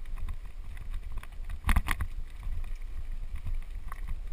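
Mountain bike rolling down a dirt singletrack: steady wind rumble on the microphone with scattered rattling clicks and knocks from the bike over bumps, two sharper knocks a little under two seconds in.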